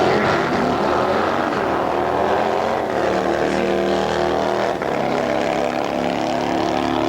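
A single drag-racing cruiser motorcycle's engine running hard down the strip on a solo pass, a loud, continuous engine note.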